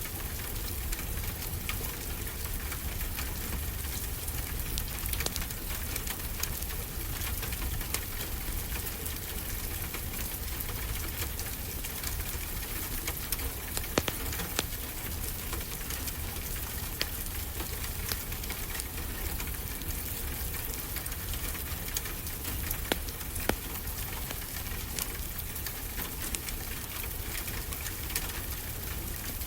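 Steady rain with a wood fire crackling over it, scattered sharper pops standing out now and then, over a low rumble.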